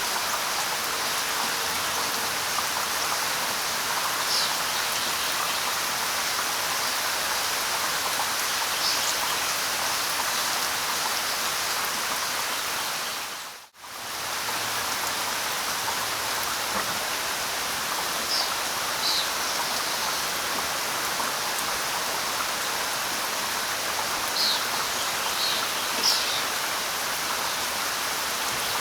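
Steady light rain hissing, with a few short, high bird chirps scattered through it. About halfway through, the sound fades out almost to silence for a moment and comes straight back in.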